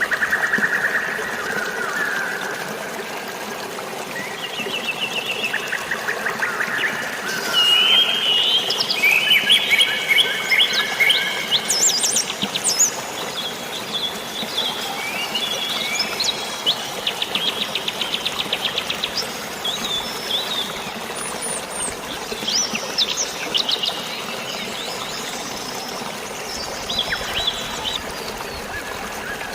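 Several birds chirping and trilling, calls overlapping and busiest in the middle, over a steady hiss of running water and rain.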